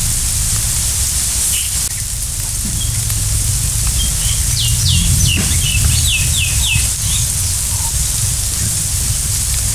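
A bird calling a quick run of about eight short, downward-sliding whistled notes about halfway through, over a steady high hiss and low rumble of outdoor background noise.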